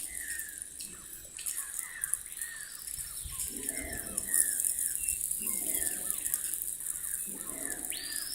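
Forest birds calling: a run of short down-slurred chirps, and two or three longer arching whistles that rise, hold and fall, over a steady high hiss.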